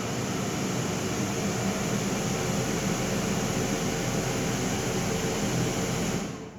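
Daikin air conditioner making a very loud, steady noise on startup: a wide hiss over low humming tones that cuts off suddenly about six seconds in. This is the intermittent fault where, after the noise, the unit seems to shut off and gives no air or cooling; the owner does not know the cause.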